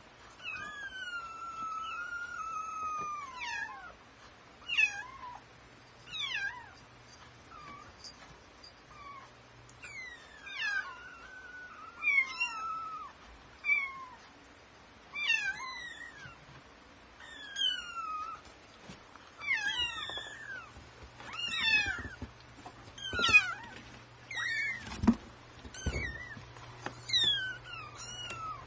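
Young kittens mewing repeatedly, high-pitched calls that fall in pitch, one every second or two, the first one long and drawn out.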